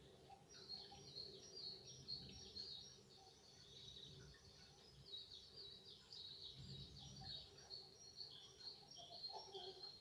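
Faint outdoor birdsong: many short, high chirps and trills from several small birds, overlapping throughout.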